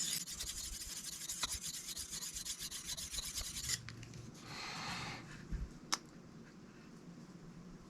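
Steel knife blade scraped in quick, short strokes across a sharpening stone for about four seconds, then one longer stroke and a light tap. This is edge work to raise a burr along one side of the blade.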